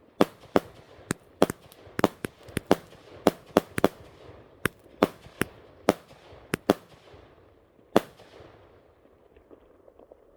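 A consumer firework cake firing an irregular volley of sharp bangs, two or three a second, each with a short echo. The last loud bang comes about eight seconds in and the firing stops there, before the cake has finished: a sign it has failed partway through.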